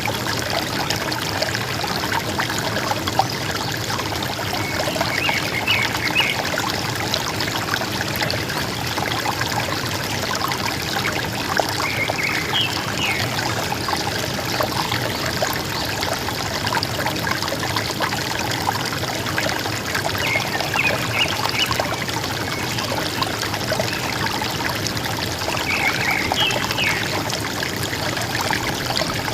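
River water flowing steadily. A forest bird gives a short call of a few quick notes about every six seconds, four times.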